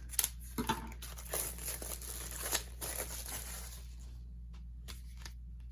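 Album packaging crinkling and tearing as a K-pop album is unwrapped and opened by hand, for about three and a half seconds. After that only a few light clicks and taps are heard.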